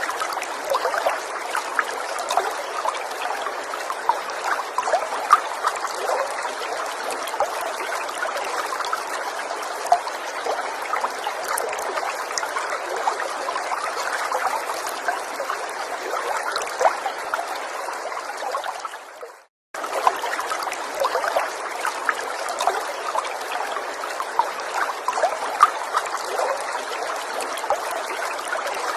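A small stream trickling and babbling over stones, steady, with small droplet-like splashes. About twenty seconds in it fades and cuts out for a moment, then carries on.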